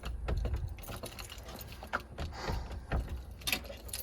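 Keys jangling, with scattered metallic clicks and rattles from working a stuck door lock or latch.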